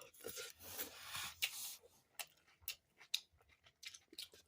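A person chewing food close to the microphone: irregular wet mouth clicks and smacks with brief hissy bursts, thinning to a few sharp clicks in the second half.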